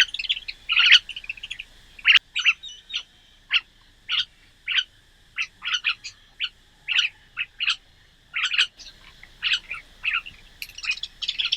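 Small birds chirping: a stream of short, irregular chirps and calls, several a second at times.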